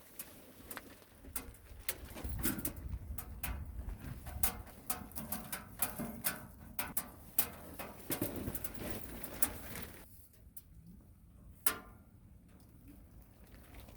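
Wood fire crackling inside a double-combustion camping wood stove: irregular sharp pops and snaps over a low rumble of the burn, which fades about ten seconds in, leaving only occasional pops.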